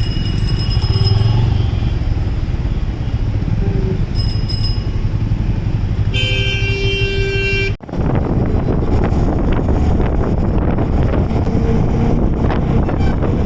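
Road traffic with a steady engine hum and vehicle horns honking: two short toots, then one long horn blast about six seconds in. After a sudden cut, wind rushes over the microphone of a moving motorcycle.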